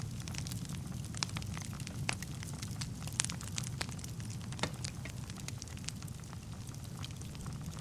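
Wood fire burning in a fireplace: a steady low rumble of flames with frequent irregular crackles and pops from the burning logs, a few sharper pops standing out.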